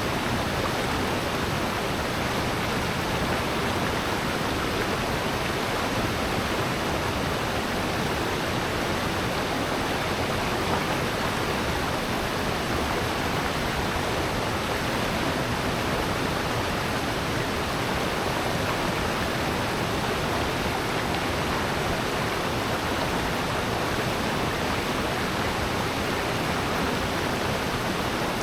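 Mountain stream water rushing steadily through a rocky valley gorge, a continuous even roar of falling and flowing water.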